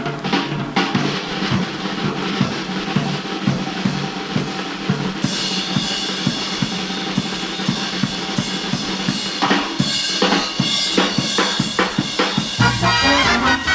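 Drum kit solo in a 1950s dance-band recording: fast strokes on snare and bass drum with rimshots, a bright shimmering layer joining about five seconds in. Near the end the lower instruments of the band come back in.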